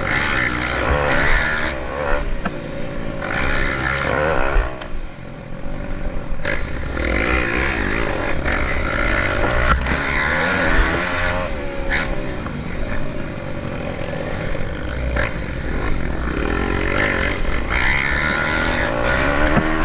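Several pit bike engines racing together, revving up and down in overlapping waves as the bikes accelerate, back off and pass.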